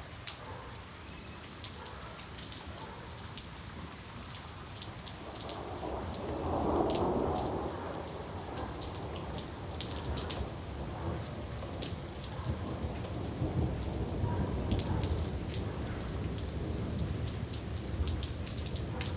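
Steady rain falling, with many individual drops ticking on a surface. Thunder rumbles through it, with a swell loudest about seven seconds in and low rumbling growing through the second half.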